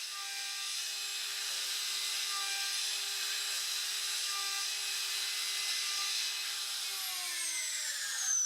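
CNC router spindle milling an aluminium pocket with a 6 mm three-flute end mill: a steady high whine over a hiss of cutting. The whine falls in pitch near the end.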